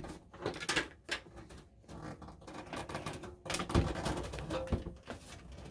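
Irregular clicks, taps and knocks of metal and plastic computer parts being handled inside a desktop tower case, with one heavier knock about four seconds in.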